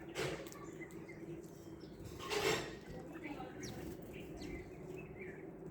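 Birds calling with scattered short chirps and quick high sweeps. A brief rushing noise comes right at the start, and a louder one about two and a half seconds in, over a steady low hum.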